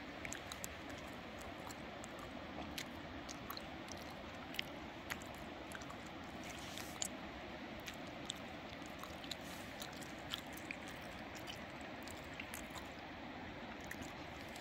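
A person chewing food close to the microphone: irregular small crunches and clicks over a steady background hiss.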